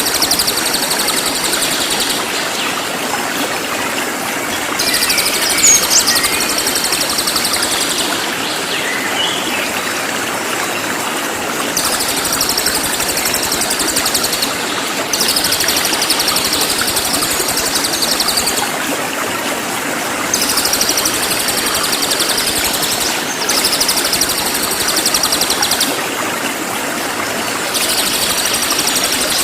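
Cililin songbird singing in repeated bouts of a few seconds each: fast, dense, high-pitched trills with short pauses between them, over a steady rushing background noise.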